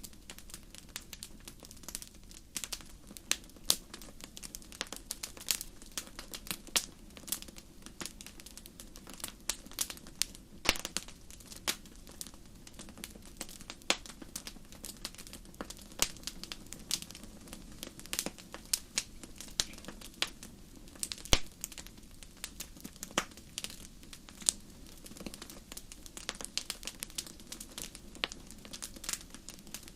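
Wood fire burning, crackling with many irregular sharp snaps and pops over a steady low rush of flame.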